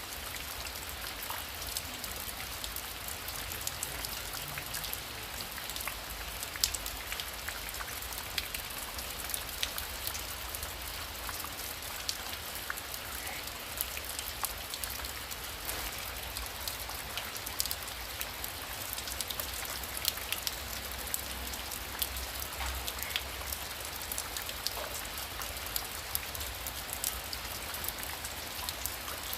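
Heavy rain falling steadily: a constant hiss with many sharp individual drop ticks scattered through it.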